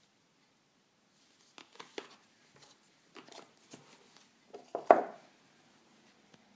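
Handling noise from a phone and its packaging: a scattered run of short clicks and rustles, with the loudest knock about five seconds in.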